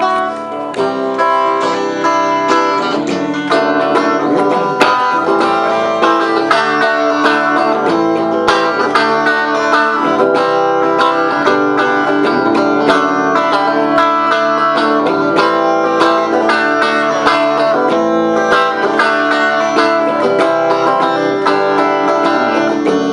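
A plucked string instrument, in the guitar or banjo family, played with fast, busy picking. It is the instrumental introduction to a song, with no singing yet.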